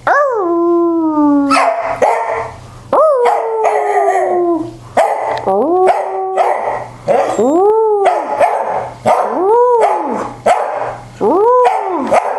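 Dog howling and yowling in a run of about seven drawn-out calls, each swooping up and falling in pitch; the first and third are long falling wails.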